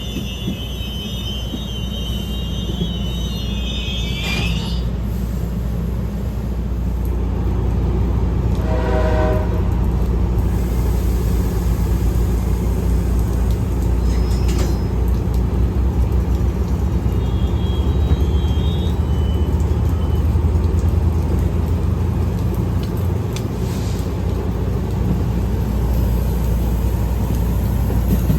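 A train rolling past with a steady low rumble. High-pitched wheel squeal rings out for the first four seconds or so, and a short horn toot sounds about nine seconds in.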